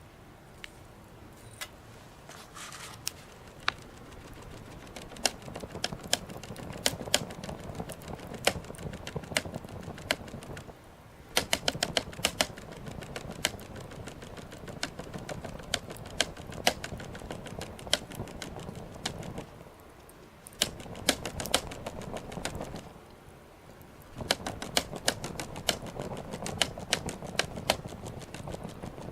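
Small wood fire crackling, with sharp irregular pops coming in clusters over a soft low rush of flame; it goes quieter for a moment three times.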